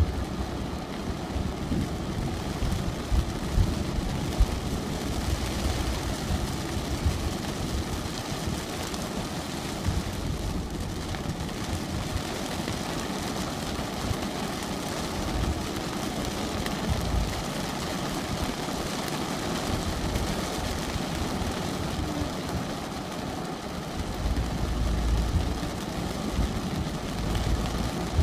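Thunderstorm: steady rain hiss over low, fluttering rumbles, with a longer, stronger rumble a few seconds before the end.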